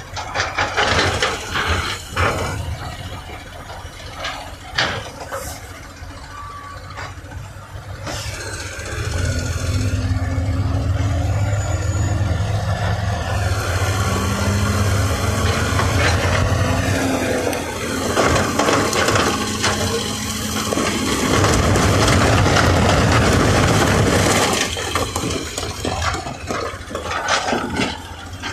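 Heavy diesel construction machinery at work: knocks and clanks at first, then from about a third of the way in a loud low engine drone that rises and falls in pitch under load, loudest shortly before the end.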